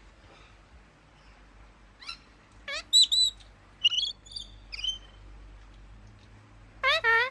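Parrots calling: a few short whistled and chirping calls in the middle, then a louder, harsher call near the end.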